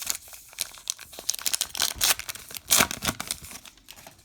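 A baseball card pack wrapper being torn open and crinkled by hand: irregular crackling and tearing, loudest about two to three seconds in.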